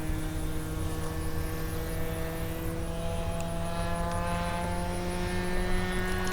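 Engine and propeller of a 1:6.5-scale Cessna 182 radio-control model plane droning in flight, its pitch rising slowly as it flies.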